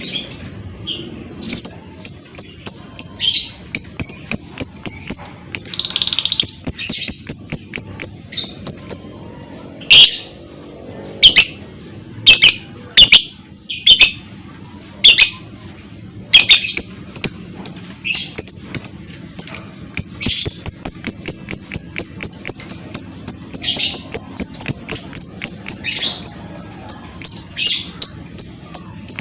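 Lovebird ngekek: long, fast runs of short high chirps, several a second, broken by loud sharp shrieks through the middle stretch.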